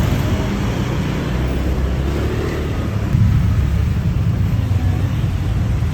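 A motorbike taxi's engine running as it rides through city traffic, with steady road noise. The sound gets briefly louder about three seconds in.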